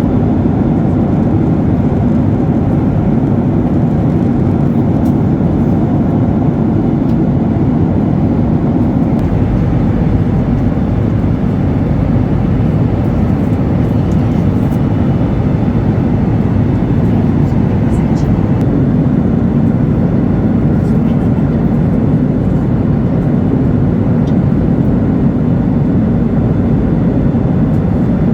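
Steady, loud cabin drone of a Ryanair Boeing 737-8200 in flight: its CFM LEAP-1B engines and the rush of air over the fuselage, heard from inside the cabin as a low, even roar.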